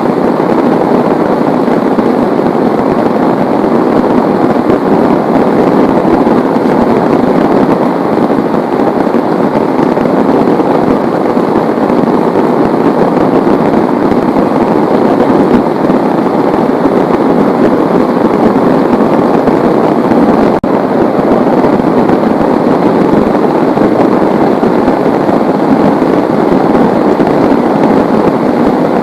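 Heavy rain falling hard, a loud, steady, dense patter, with one momentary dip about twenty seconds in.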